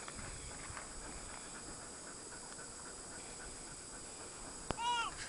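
Faint outdoor hiss with small scattered rustles, then a sharp click about four and a half seconds in, followed at once by a short, high-pitched vocal squeak that falls in pitch.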